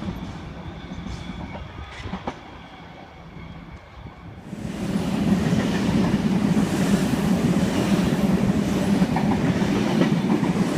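Sydney Trains electric passenger train passing through the station: fainter rail noise with a few clicks at first, then about four and a half seconds in the train's noise rises sharply and holds loud and steady to the end.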